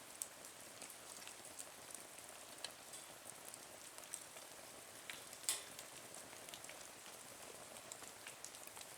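Small wood fire burning in a nature stove: faint, steady crackling with scattered pops and one louder snap about five and a half seconds in.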